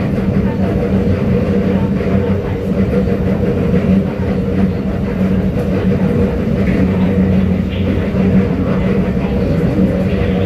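Cabin running noise of a Kawasaki Nippon Sharyo C751B metro train travelling at steady speed: a continuous rumble of the wheels on the rails with a steady, even hum.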